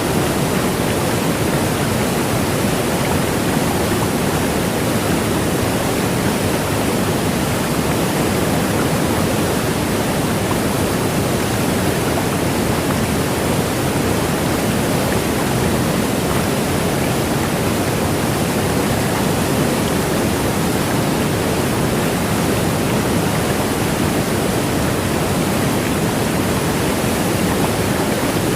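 Steady rushing water noise, even throughout, with no rise and fall of separate waves.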